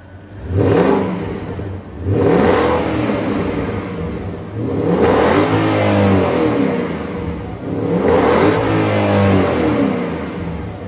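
Porsche Panamera 4S engine revved four times through an Armytrix F1 Valvetronic exhaust with stainless X-pipe and valved rear silencers. Each blip rises quickly and then falls back, the last two dying away slowly.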